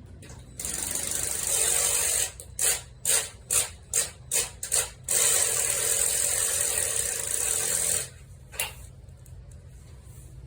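Cordless drill with a socket running bolts out: one long run, then six quick trigger pulses about half a second apart, another long run of about three seconds, and a last short blip.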